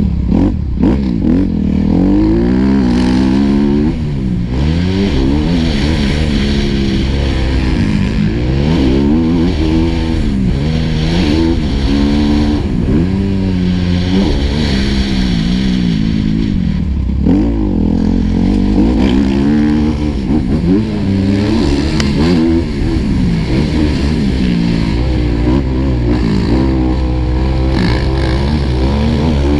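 Motocross bike's single-cylinder four-stroke engine, heard on board, revving up and dropping back again and again as the rider accelerates, shifts and brakes around the track.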